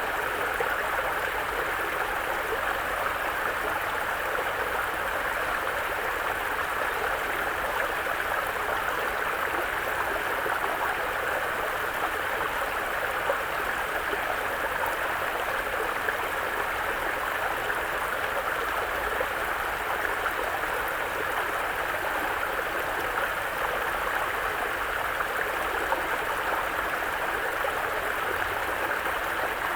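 Mountain brook flowing over rocks: a steady, even rush and babble of running water.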